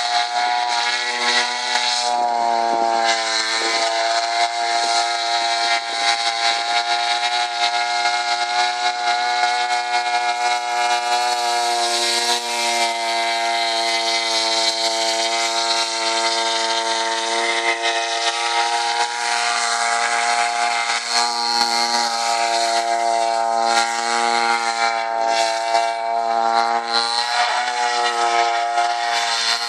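62cc two-stroke chainsaw engine on an RC airboat, driving an 18x12 propeller and running steadily at an almost constant pitch. It eases off briefly about two to three seconds in and again near the end.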